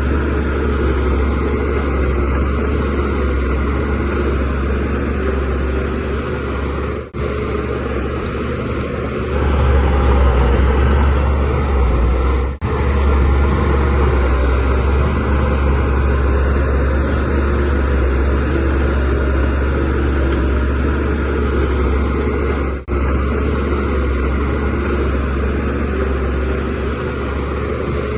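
Shantui DH17C3Pro bulldozer's diesel engine running steadily at working speed, a deep drone that gets a little louder about ten seconds in. The sound drops out for an instant three times.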